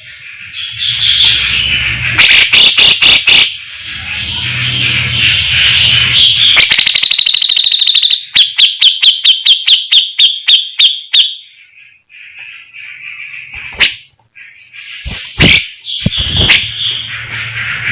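Brown-cheeked bulbul (cucak jenggot) singing loudly in chattering phrases. About halfway through comes a very fast trill, then a run of evenly repeated notes, and near the end a few sharp single notes.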